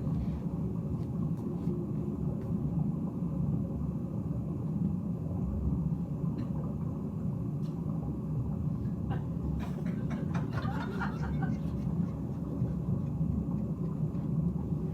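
Steady low rumble of a car engine, as a stage sound effect for a car speeding along. It cuts off suddenly at the very end.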